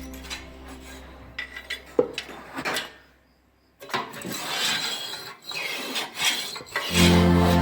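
Scraping and rubbing strokes from cleaning a Burnit PM 23 pellet stove, irregular, with a few clicks and a short pause about three seconds in.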